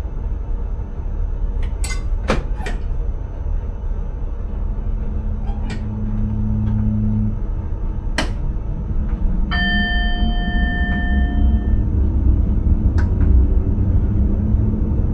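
Intercity train running, heard inside the driver's cab: a steady low rumble with sharp clicks here and there from the wheels over rail joints or points. About ten seconds in, a single bell-like ding rings for about two seconds, typical of a cab warning chime. Near the end a rising whine joins the rumble.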